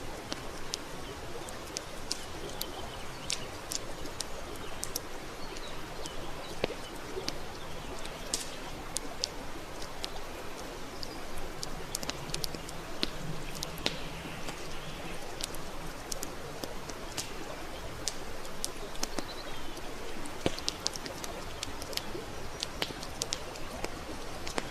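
Wood campfire burning, with frequent irregular crackles and sharp pops over a steady hiss.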